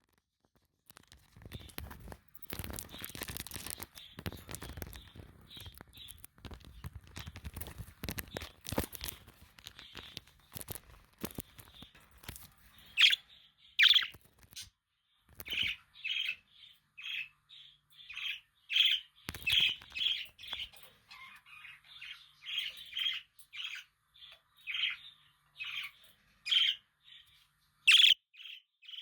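Budgerigars chirping: for the first ten seconds or so a rustling, fluttering noise with only scattered calls, then a run of short chirps, one or two a second, a few of them loud.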